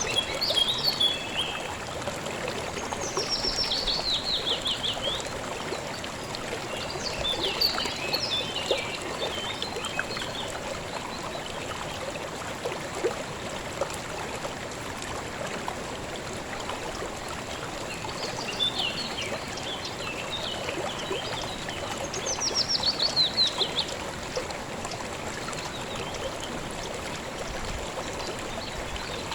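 Calm river water running steadily, with songbirds singing over it: a fast falling trill about 3 seconds in and again about 22 seconds in, and shorter chattering phrases in between.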